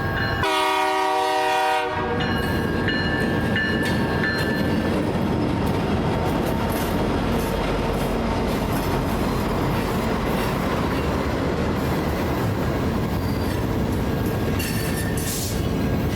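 A locomotive horn sounds once, for about a second and a half, near the start. A train then runs past with steady, dense noise, and a brief burst of high-pitched noise comes near the end.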